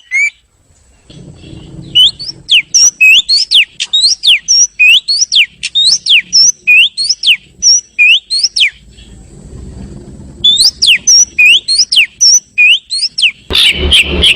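Oriental magpie-robin (kacer) song used as a lure call: a run of loud, sharp whistled notes, each sliding up or down in pitch, about two a second. The song pauses briefly near the start and again a little past the middle, then turns denser near the end.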